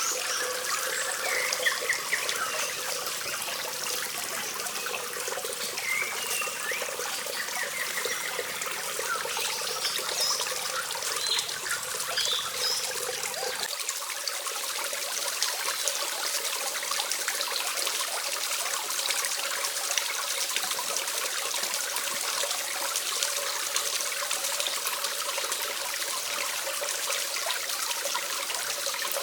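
Steady trickling water, with a few short bird chirps in the first half.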